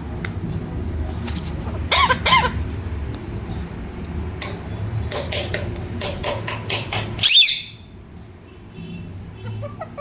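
Pet parrot calling: a few curved, squeaky calls about two seconds in, a run of sharp clicks, then one loud, high screech at about seven seconds, followed by faint short chirps near the end.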